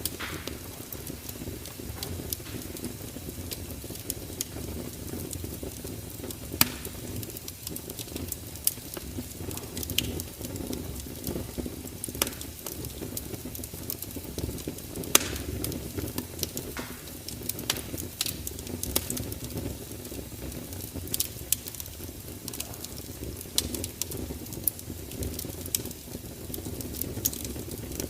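Wood fire crackling: a steady low rumble and hiss of the burning, broken by many irregular sharp pops and snaps, a few of them much louder.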